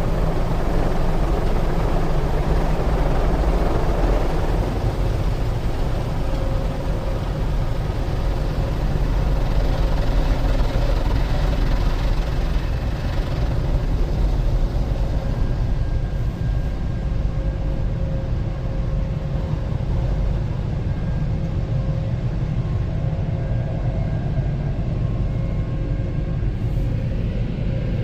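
WashTec SoftLine 2 tunnel dryers, the Flexstream rotary roof dryer and the side dryer fans, blowing air over the car: a steady, loud rush of air over a deep rumble, easing slightly about halfway through.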